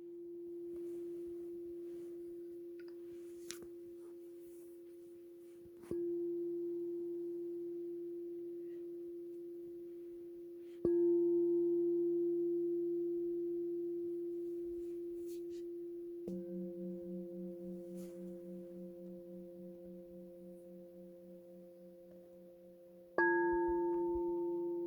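Singing bowl struck four times, at roughly five-second intervals, each strike ringing out in one steady pitched tone with overtones and fading slowly. After the third strike the ring pulses in a slow wavering beat.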